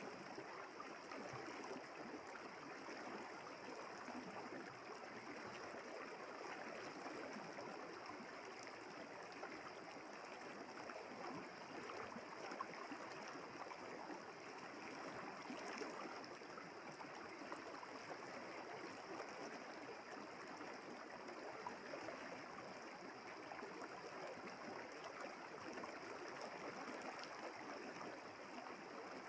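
A river flowing: a steady, even rush of running water that does not change.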